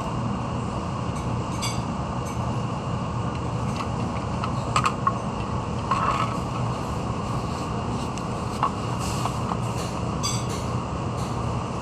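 Steady mechanical hum and rumble of running machinery, with a few short metallic clicks and knocks around the middle.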